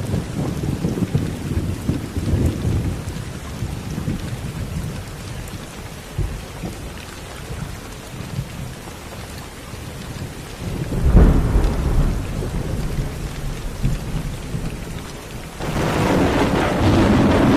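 Steady rain with low rolling thunder that fades, then a sharp thunderclap about eleven seconds in. Near the end the rain suddenly turns louder and heavier.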